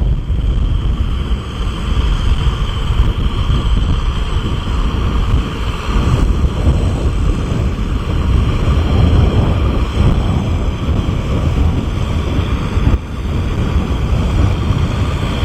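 Kubota M6040SU tractor's four-cylinder diesel engine running steadily under load while plowing wet paddy mud, a continuous deep rumble.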